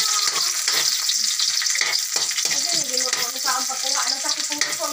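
Minced garlic and onion sizzling in hot oil in a steel wok, with a metal spatula stirring and scraping the pan.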